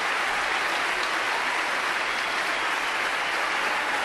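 River water rushing over rocks, a steady even roar of running water.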